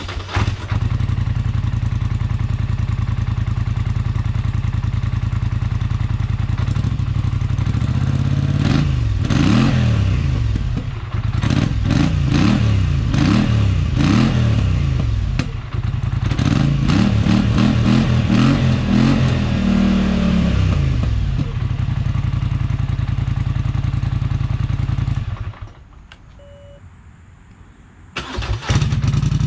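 Polaris Sportsman 850's twin-cylinder engine running through a GSE Trail Tamer muffler: it idles steadily, is blipped up and down in a string of revs from about 8 to 21 seconds in, then settles back to idle. Near the end the sound drops away for a couple of seconds before the engine is heard idling again.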